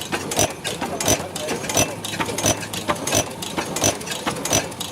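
Early-20th-century Behrendt horizontal stationary gas engine running slowly: a sharp knock with a bright metallic click about every two-thirds of a second, with lighter mechanical ticking between.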